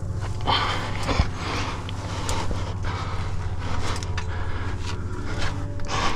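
A climber's heavy breathing and body and shoes scraping against sandstone while working up a chimney, with a few sharp knocks and a steady low hum underneath.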